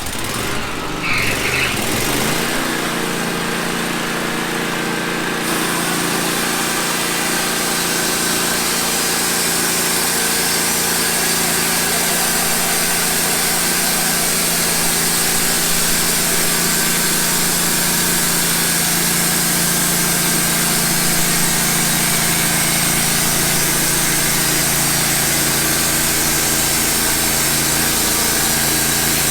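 Wood-Mizer portable band sawmill running as it saws a pine log: the engine picks up in the first couple of seconds, then holds a steady pitch under load while the band blade cuts with a continuous hiss.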